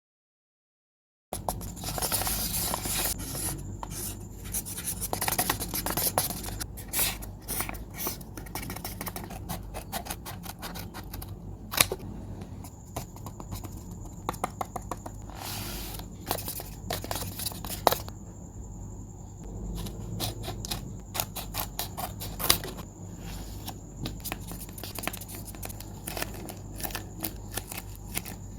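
Paper being handled close to the microphone: crinkling, rustling and scraping, with many short sharp crackles and a couple of louder clicks. It begins about a second in.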